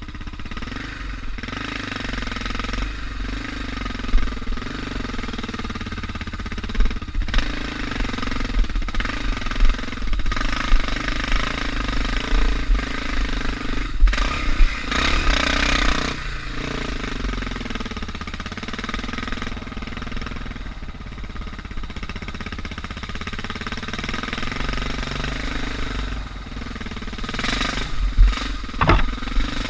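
Suzuki DR650's single-cylinder four-stroke engine running as the bike is ridden along a dirt single track, its pitch rising and falling with the throttle. A few short sharp knocks stand out, the loudest near the end.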